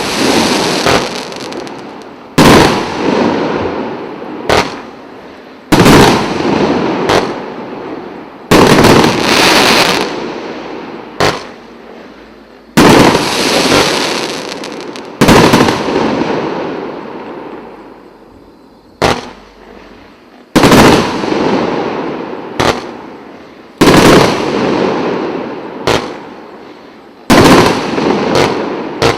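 A 100-shot, 1.25-inch firework cake firing: loud sharp bangs at uneven gaps of one to three seconds, each trailing off over one to three seconds before the next.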